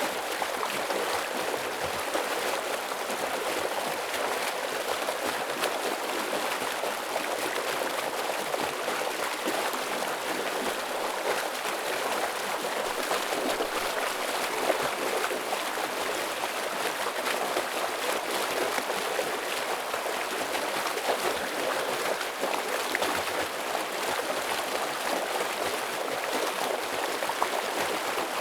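Heavy stream water rushing and flowing steadily, an even hiss-like wash of moving water without pauses.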